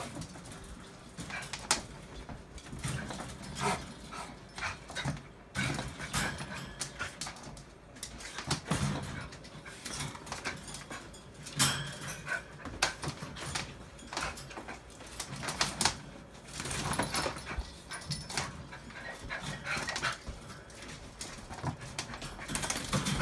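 Bichon Frise dog whining and giving short barks in play, among many quick scuffling clicks.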